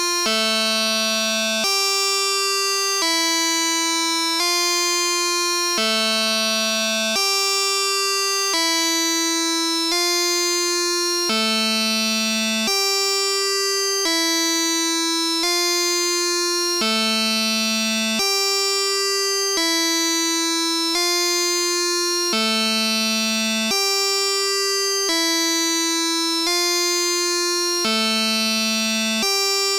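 Arturia Brute-series analog synthesizer playing a sequenced patch: a bright, buzzy looping pattern of held notes, about 1.4 seconds each, with one lower note coming round every five and a half seconds or so.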